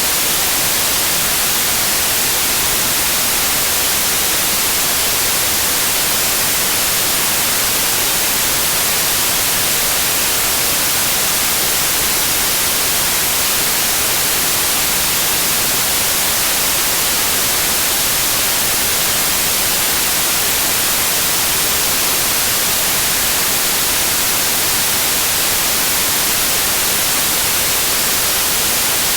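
Continuous white noise: a steady, even hiss, strongest in the high frequencies, with no changes.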